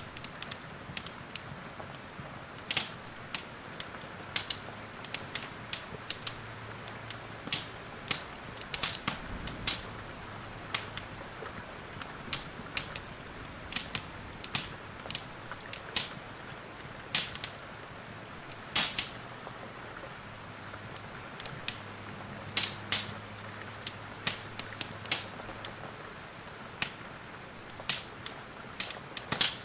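Wood fire in a fireplace crackling, with irregular sharp pops, over a steady hiss of rain.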